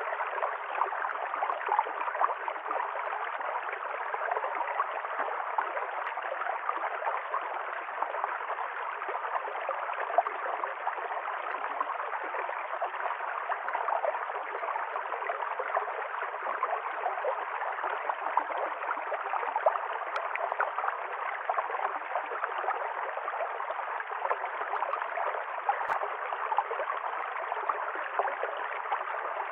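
A stream of water flowing and gurgling steadily over rocks, a continuous fizzing wash of water noise. A single faint click sounds near the end.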